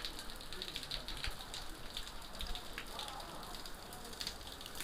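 Seawater washing on the shore, a steady fizzing hiss thick with small crackles and pops.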